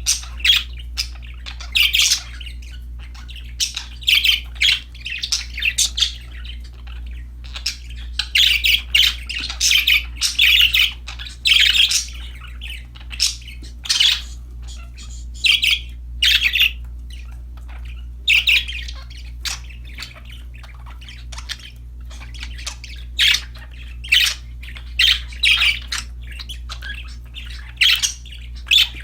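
Pet budgerigars (parakeets) chirping in bursts of quick, short calls with brief pauses between, over a steady low hum.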